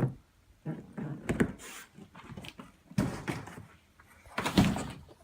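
Packaging being handled and opened: several short bursts of rustling and scraping with knocks, about a second apart.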